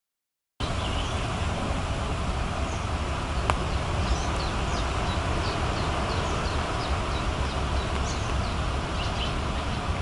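Small birds calling with many short, high chirps over a steady rushing background noise that is heaviest in the low end; the sound starts abruptly about half a second in, with a single sharp click a few seconds later.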